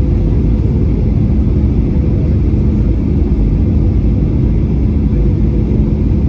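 Jet airliner cabin noise: a steady, loud rumble of engines and airflow heard from inside the passenger cabin, with a faint steady hum over it.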